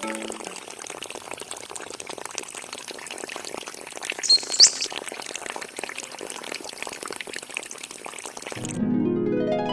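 Water pouring and splashing steadily from a small mini water pump's outlet. A brief high squeak about halfway through, and music comes in near the end.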